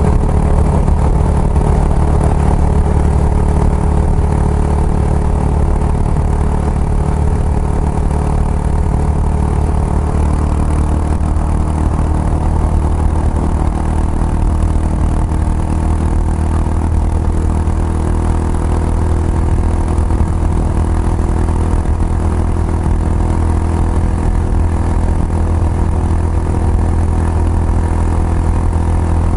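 Kawasaki Estrella's single-cylinder engine running steadily through an aftermarket Yamato muffler, giving an even, low exhaust note.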